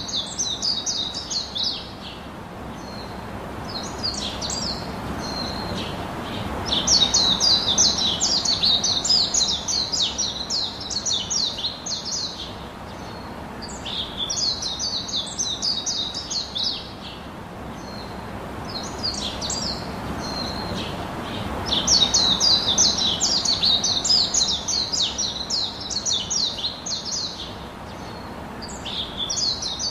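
Birdsong: bursts of rapid, high chirping trills, some brief and some lasting about five seconds, with the same pattern coming back about every fifteen seconds.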